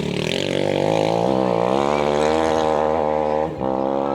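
An off-road rally vehicle's engine revving hard under acceleration, its pitch climbing and then holding high, with a short break about three and a half seconds in before it picks up again.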